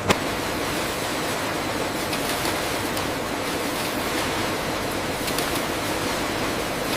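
Steady rushing noise of factory machinery running, with one sharp click just after the start and a few faint ticks later on.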